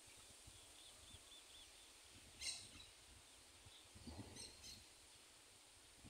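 Faint wild birdsong: a quick run of about four short high notes about half a second in, a louder sharp call about two and a half seconds in, and a few more high calls around four seconds in. A brief low rumble comes with the later calls.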